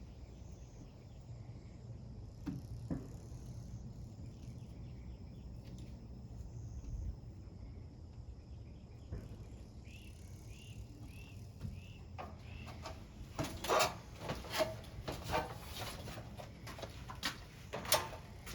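Low steady background hum, with a few faint chirps partway through, then a run of irregular sharp clicks and rustles near the end, like handling noise.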